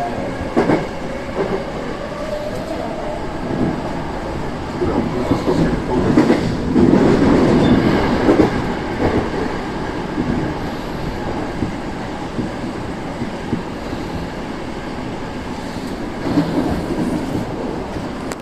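Saitama Railway 2000 series electric train running along the track: a steady wheel-and-rail rumble with knocks as the wheels pass over rail joints, louder for a few seconds around the middle.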